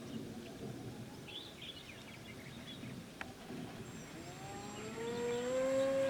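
Birds chirping faintly over outdoor background noise, then about two-thirds of the way in a small electric motor's whine rises in pitch and grows louder before holding steady.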